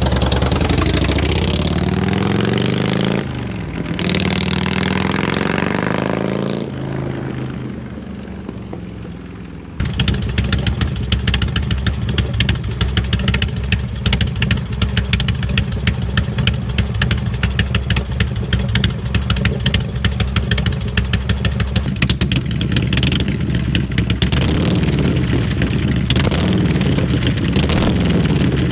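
Harley-Davidson 88-cubic-inch V-twin with aftermarket mufflers being revved, its pitch rising and falling repeatedly in the first several seconds. An abrupt change about ten seconds in leads to a V-twin idling with a fast, even pulse, revved again near the end.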